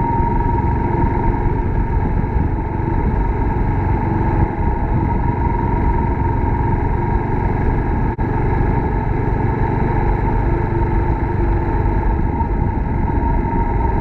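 Suzuki Grass Tracker Big Boy's 250 cc single-cylinder engine running steadily while riding.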